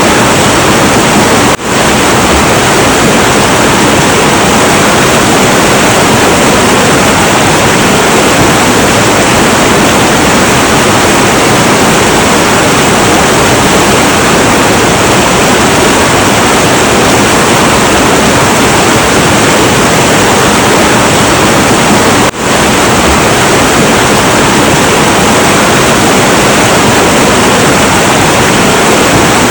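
Heavy, turbulent river water rushing in a dense, steady roar, with two momentary dips in level, one near the start and one late on.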